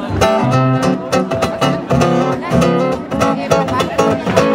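Acoustic guitar strummed in a steady rhythm, playing a song's instrumental intro before the vocals come in.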